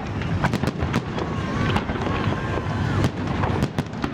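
Festive fireworks salute going off in many sharp, irregular bangs and crackles over a steady low rumble, with people's voices in the background.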